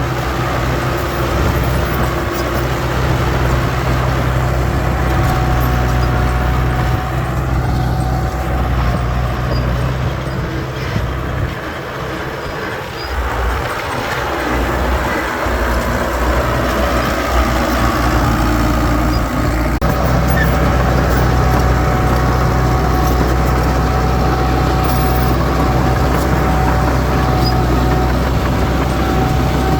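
Heavy diesel engine of earthmoving machinery running with a steady low drone. It eases off for a few seconds about midway, then comes back steady.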